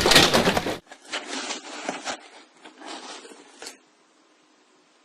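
A loud rush of noise for the first second, then a run of short, scratchy scrapes that stops about four seconds in.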